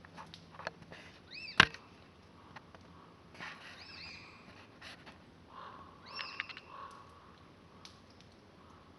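A bird calling outdoors with short arched chirps, given in pairs three times, with several sharp clicks between them. The loudest click comes about one and a half seconds in.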